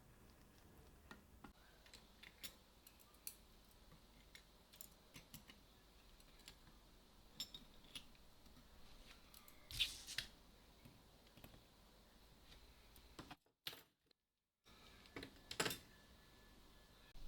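Faint, scattered small clicks and taps of camera parts and small tools being handled, with a couple of louder clicks about ten seconds in and again near the end. There is a second of complete silence just before the last of these.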